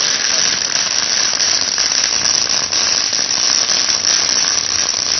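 A ground fountain firework spraying sparks with a steady loud hiss and faint crackle.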